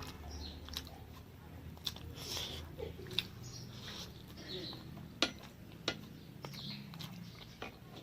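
A person chewing and eating close to the microphone, with wet mouth smacks and several sharp clicks scattered through.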